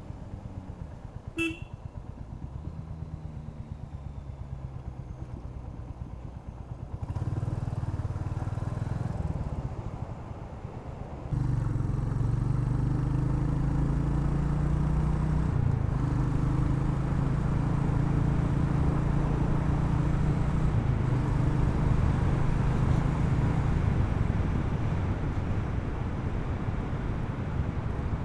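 Royal Enfield Hunter 350's single-cylinder engine running on the road, with a short horn toot about a second and a half in. The engine grows louder about seven seconds in and again from about eleven seconds on, then holds steady.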